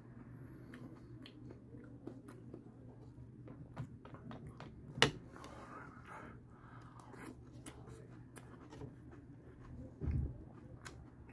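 Close-up chewing and crunching of Pumpkin Spice Cheerios, with many small crackles. A single sharp click about halfway through as the spoon scoops from the plastic bowl, and a low thump near the end.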